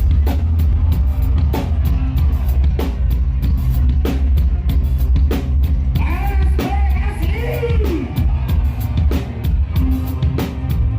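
Loud band music, dangdut, played through a large concert sound system: a drum kit beat over heavy, constant bass. About six seconds in, a melodic line rises and falls in pitch for a couple of seconds.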